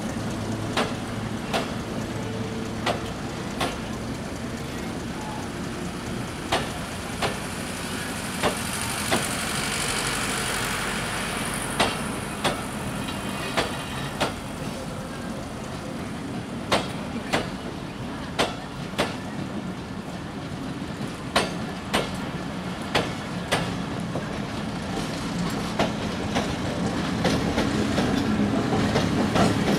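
Broad-gauge passenger coaches rolling past, their wheels clacking over rail joints, the clacks often in pairs about every second, over a steady rumble. Over the last few seconds a diesel locomotive's engine hum grows louder.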